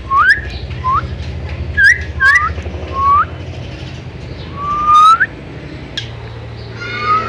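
Hill myna whistling: a series of short, sharply upward-sweeping whistles, with a longer one about five seconds in, over a steady low hum.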